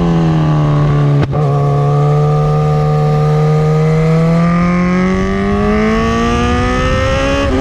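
Kawasaki Z1000 R's inline-four running loud through an SC-Project S1 aftermarket exhaust. A sharp break in the note about a second in, then the pitch climbs steadily under acceleration and drops suddenly near the end at a gear change.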